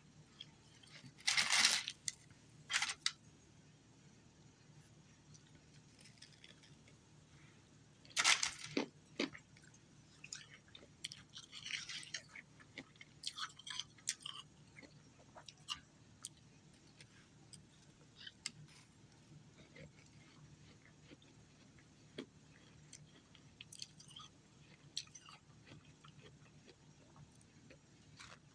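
Ice being bitten and chewed close to the microphone: loud crunches about a second in and again around eight seconds, then a run of smaller crunching chews that thins out into occasional faint clicks.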